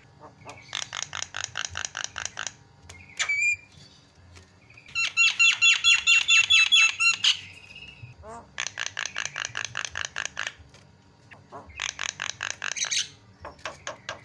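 Javan myna (jalak kebo) song: five bursts of fast, harsh repeated notes, each lasting one to two seconds, the loudest about five seconds in, with short sliding whistles between them.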